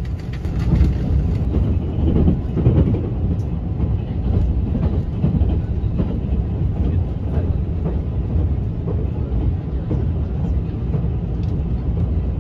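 Running noise inside the cabin of a JR West 283 series limited express electric train, the Hitachi IGBT-inverter unit HB601: a steady low rumble of wheels on rail, with scattered sharp clicks from the track.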